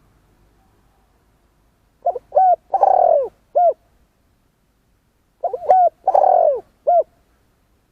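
Spotted dove cooing: two phrases of several short coos, each with a longer, falling middle note, a few seconds apart.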